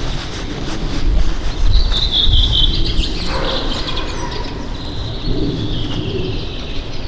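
Songbirds singing: trilled, chirping phrases, loudest about two seconds in and again in the second half, over a steady low rumble.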